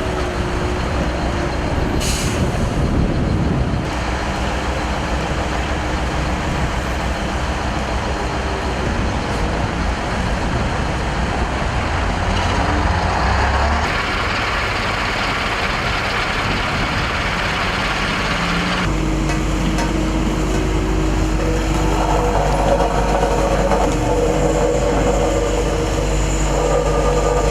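Heavy diesel engines of road-repair machinery and trucks running steadily during asphalt pothole patching. The sound changes abruptly a few times, and a steadier, lower hum comes in for the last third.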